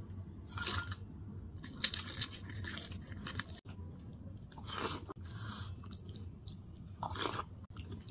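Close-up eating sounds: a person chewing and crunching mouthfuls of food, in four or so short crunchy bursts. A steady low hum runs underneath.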